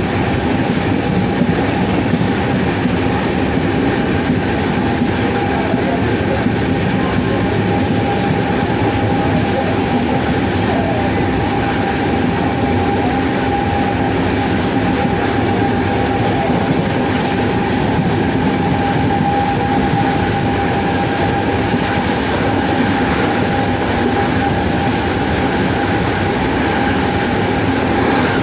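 WAP-7 electric locomotive running: a steady whine from its traction motors over a constant rumble from the running gear, with no change in pitch.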